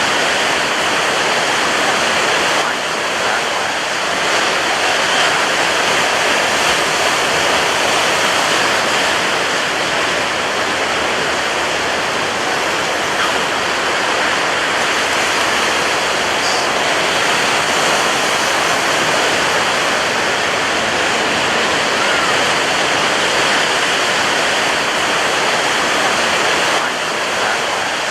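Ocean surf breaking on a beach: a loud, steady roar of rushing water with no distinct individual wave crashes standing out.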